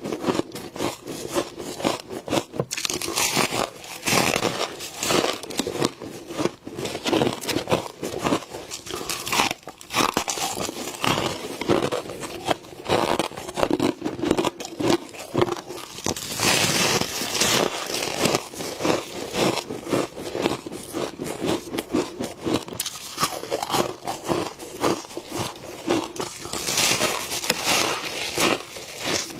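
Close-up crunching and crackling of someone biting and chewing mouthfuls of soft freezer frost, with many quick crisp crunches in a row.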